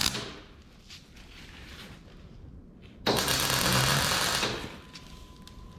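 Electric welding arc crackling and buzzing for about a second and a half, starting about three seconds in, as a short weld is run on steel; the tail of an earlier weld cuts off just at the start.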